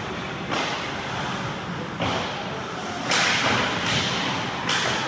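Ice hockey play heard from beside the net: four sharp cracks and scrapes from sticks, puck and skate blades on the ice, spread over a few seconds, over the noise of the rink.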